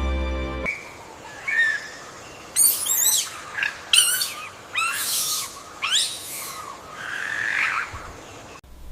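Bird calls: a series of sharp, high chirps with quick sweeps in pitch, coming about once a second.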